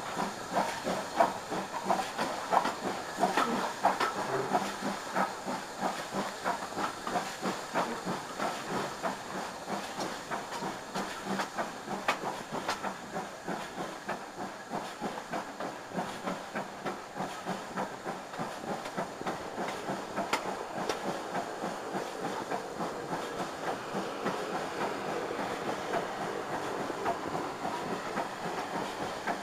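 Train running along the line, heard from an open carriage window: the wheels click over rail joints in a quick, uneven patter over a steady rush of wind and running noise, the clicking loudest in the first few seconds.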